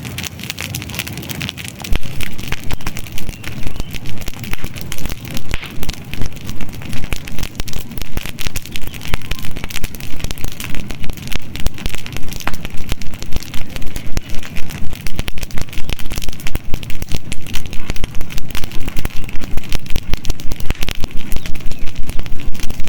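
Campfire burning with dense crackling and popping, getting much louder about two seconds in and then pulsing in a quick, fairly even rhythm.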